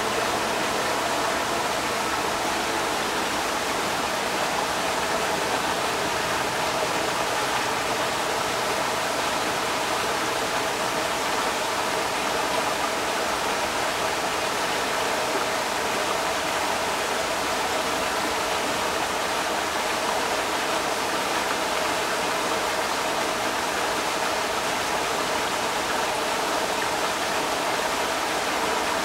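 Creek water rushing steadily, a constant full hiss of flowing water.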